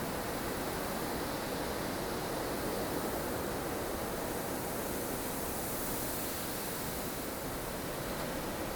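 Steady wind noise of a blustery snow storm: a dense, even rush with slow, gentle swells and no gusts standing out.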